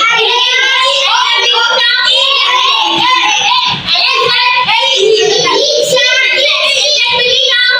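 A group of children singing together in unison, a continuous chant with no pauses.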